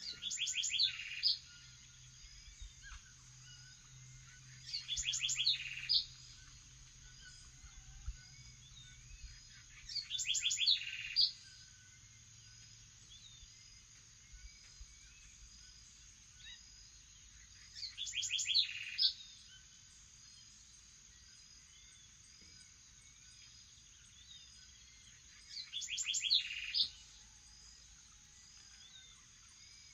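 Morning bird chorus of many birds chirping steadily. Over it, one bird loudly repeats a short, rapid stuttering phrase about every five to eight seconds, five times, with a sixth starting at the very end.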